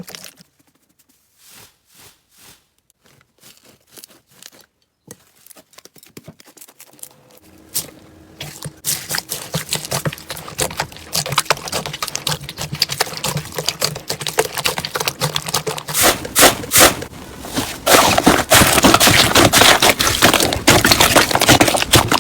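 Slime being pressed and squished by hand, giving a run of sticky clicks and crackles. It starts sparse and faint, turns dense from about eight seconds in, and is loudest near the end.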